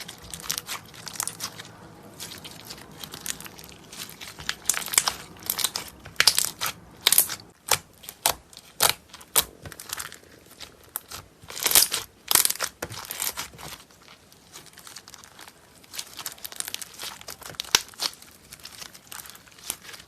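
Slime being pressed and worked by hand, giving irregular crunchy crackles and snaps, with louder clusters about six seconds in and about twelve seconds in.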